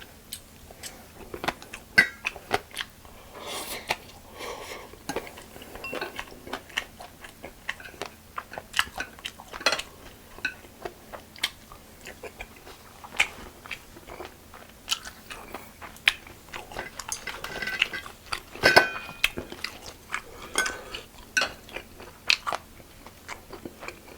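Close-up eating sounds: a person biting and chewing lettuce-wrapped spicy pork and crunchy side dishes, with wet crunching and smacking and occasional clinks of utensils on dishes.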